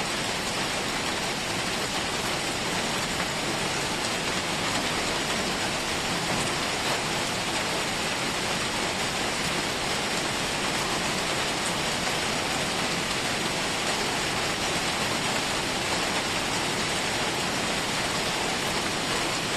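Steady rain falling on hard surfaces, an even hiss with no breaks.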